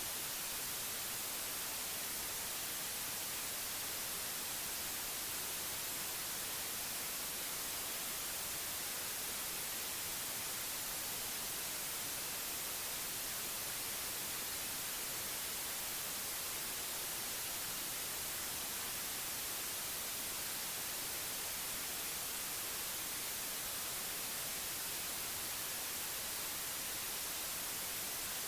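Steady synthetic white noise: an even, unchanging hiss, brighter in the high end.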